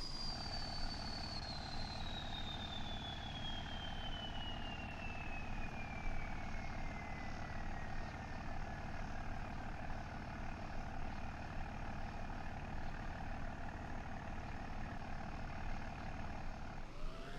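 Truck engine idling steadily, with a high whistle that slides slowly down in pitch over the first ten seconds or so.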